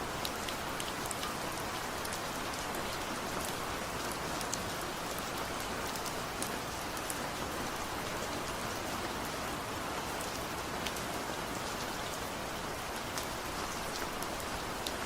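Steady rain falling, an even hiss scattered with many individual drops ticking onto a surface.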